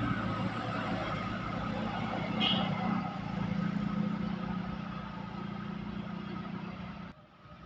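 Motor vehicle engine running steadily with road noise, and a brief sharp high-pitched sound about two and a half seconds in. The sound drops away abruptly near the end.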